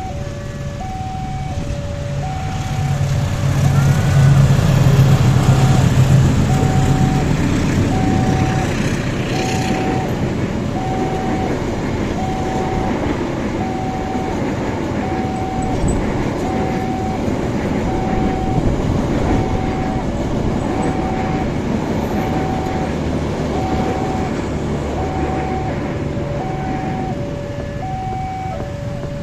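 Level-crossing warning alarm sounding a steady two-tone chime that alternates between a higher and a lower note, with about one note every three-quarters of a second, while a train passes. The locomotive's diesel engine is loudest about four to seven seconds in, and the rumble of the carriages rolling past follows it.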